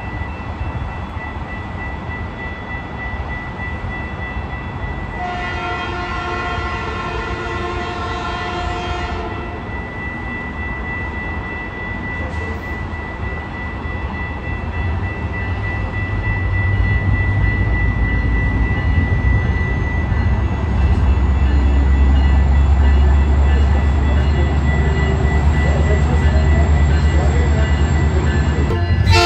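Metrolink diesel-hauled commuter train approaching: one long multi-note horn blast about five seconds in, then the locomotive's low engine rumble growing steadily louder as the train draws near.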